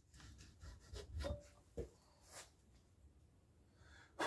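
Faint handling sounds at a workbench: a few soft rubs and light taps.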